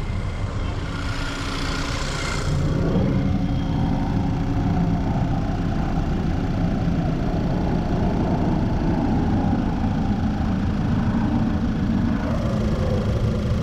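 2010 VW Tiguan's 2.0 TSI turbocharged four-cylinder engine idling, with a brief hiss in the first couple of seconds before the running settles louder and steadier. The engine is misfiring, here running with its PCV system's intake bypassed.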